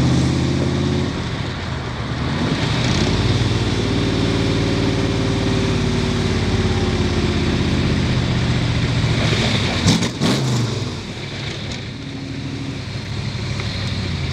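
Shelby 427 Cobra's Ford 427 side-oiler V8 running under way, its pitch climbing as it accelerates, dropping back and climbing again, then easing slowly down as the car cruises. Wind rush from the open cockpit lies over it, and a few sharp knocks come about ten seconds in.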